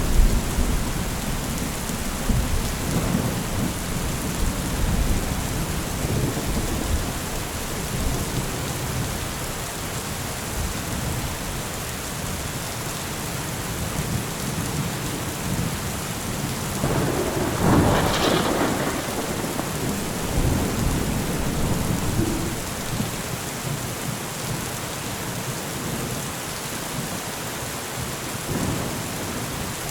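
Steady rain with thunder rumbling at intervals. A louder peal of thunder comes a little past halfway, and further rumbles come near the start and near the end.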